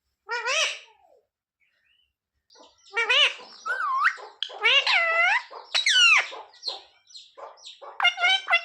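Pet parrot calling: one short call, a pause of about a second and a half, then a run of loud calls that rise and fall in pitch. Quick repeated notes come near the end.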